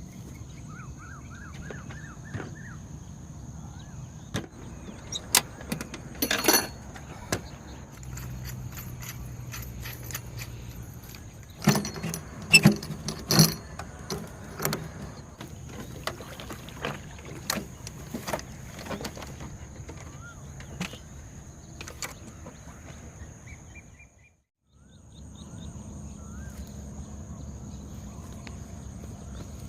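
Scattered clicks, knocks and rattles of objects being handled, over a steady high insect drone and a low hum; the sound cuts out briefly about 24 seconds in.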